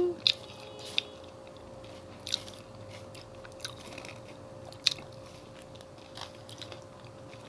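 Close-up eating sounds: quiet chewing with a few short, sharp crunches of leftover crispy fried-chicken breading, over a faint steady hum.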